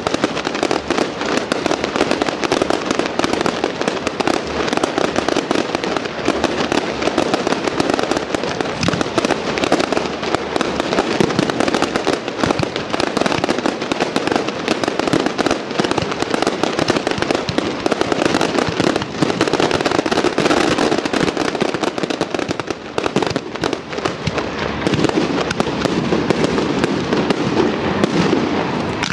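Aerial fireworks display: a dense, unbroken barrage of many shell bursts going off in rapid succession.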